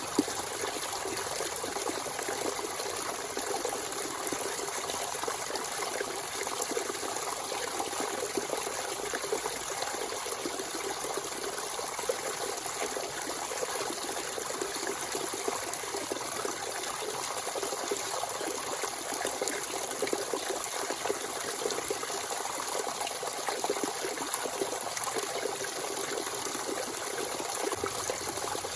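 Natural spring water running freely in a steady trickle and gush, a constant, even splashing with no break.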